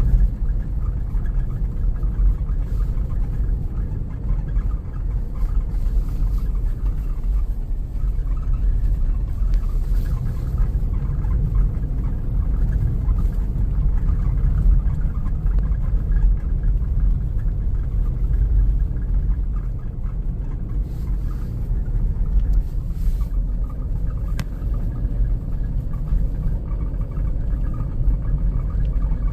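Blizzard wind buffeting the microphone: a loud, steady low rumble that swells and dips with the gusts.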